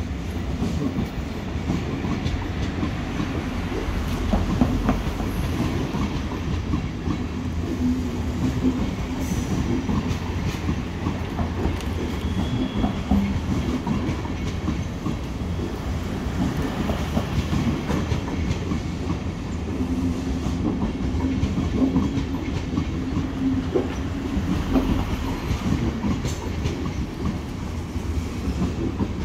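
Deutsche Bahn InterCity passenger coaches rolling past on the tracks: a steady low rumble with irregular clickety-clack of the wheels over the rails, and a low hum that comes and goes.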